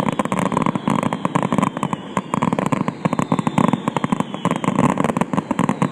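Fireworks display going off: a dense, unbroken run of rapid pops and crackles, many per second.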